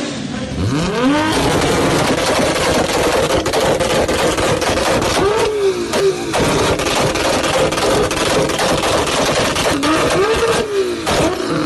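Toyota Supra MK4 turbocharged inline-six revved up and held on a 2-step launch limiter, with a rapid machine-gun string of exhaust pops and bangs over the held note. The revs drop and climb back twice.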